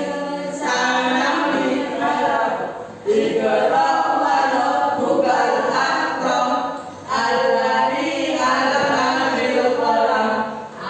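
A group of voices singing a song together, in phrases with short breaks about three and seven seconds in.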